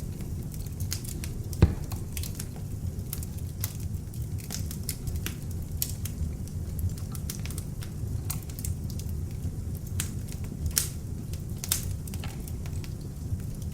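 Beech-wood log fire burning with a steady low rumble of flames and frequent crackles and pops from the burning wood, one loud pop about two seconds in.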